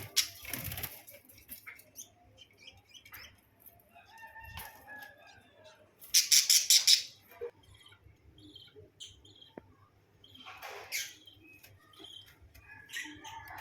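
A small bird chirping softly now and then, with a loud burst of wing flapping about six seconds in.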